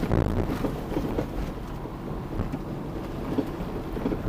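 Toyota car driving, with low road rumble inside the cabin and a few irregular knocks from the car; the occupants call it a new knock they cannot explain.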